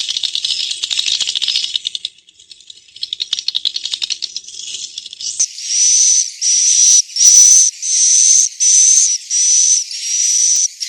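Swiftlet calls from a 'suara inap' roosting lure recording, the kind played in swiftlet houses to draw the birds in to roost: a fast, high rattling chatter for about two seconds, then after a short lull a run of about seven buzzy chirps, each about half a second long with a thin high whistle through it.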